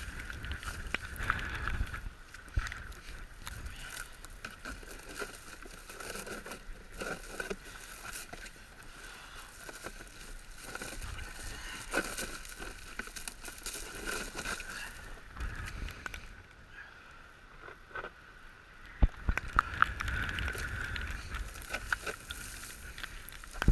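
Goose decoys and bags being handled and packed: scattered rustles and knocks, with a sharp knock about 19 seconds in, and wind buffeting the microphone at times.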